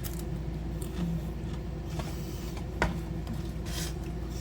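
Steady low room hum with a few faint, short clicks and a brief hiss.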